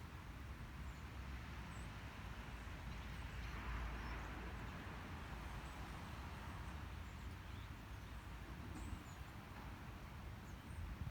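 Outdoor nature ambience: a steady low rumble and hiss that swells for a second or two about three to four seconds in, with a few faint, scattered high bird chirps.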